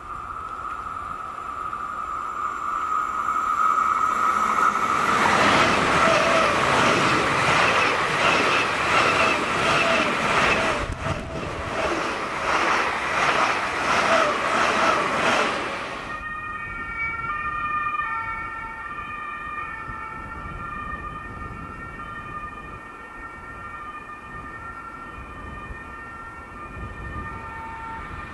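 An SBB ICN electric train approaching with a steady high whine that grows louder, then passing close at speed with loud rushing wheel and rail noise and a regular beat as the bogies go by. This cuts off sharply about 16 seconds in. After that, a distant electric train approaches with several steady high whining tones that come and go.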